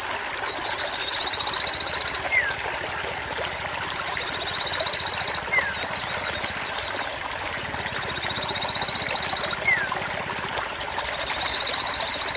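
Recorded sirtu bird song looping: a rapid high trill about a second long, repeated roughly every two seconds, each time followed by a short falling note. Steady trickling water runs underneath, the kind of water-and-birdsong track played to caged birds to coax them into singing.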